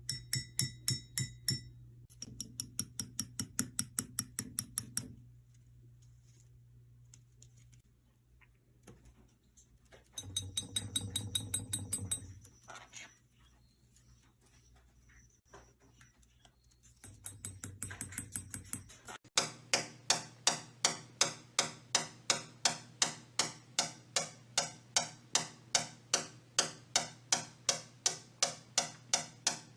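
Sharp, evenly spaced ticks or taps: several short fast runs in the first half, then a steady run of about two or three ticks a second from about two-thirds of the way in.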